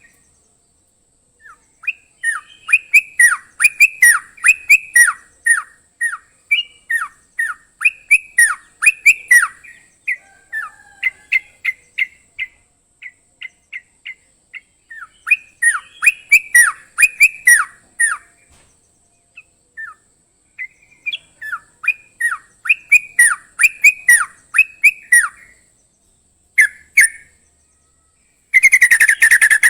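Crocokan songbird singing: quick series of short, down-slurred whistled notes in phrases a few seconds long with brief pauses between them. Near the end a loud, fast, unbroken trill sets in.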